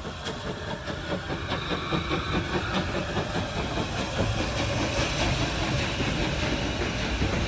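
Steam locomotive hauling a train and approaching, growing steadily louder, with a quick, even rhythmic beat over a hissing rush.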